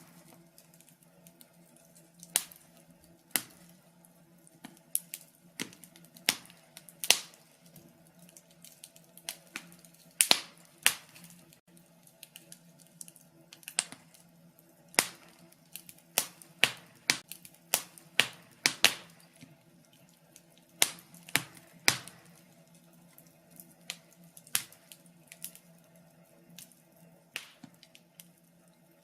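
Wood fire crackling in a fireplace: irregular sharp pops and snaps, bunched several a second at times, over a faint steady low hum.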